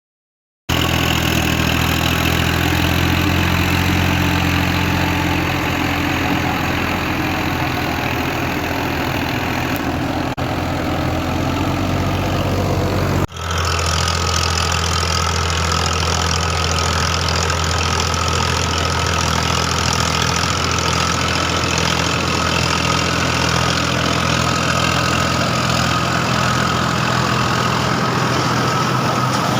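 Tractor engine running steadily with a deep, even drone. About 13 seconds in the sound cuts off abruptly and the engine picks up again, now with a steady high whine over it.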